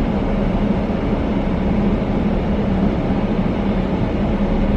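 Steady road and engine rumble inside a moving car's cabin, with a constant low hum.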